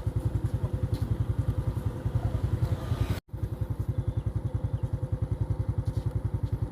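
A vehicle engine running with a steady, rapid low throb. The sound cuts out for an instant about three seconds in, then carries on.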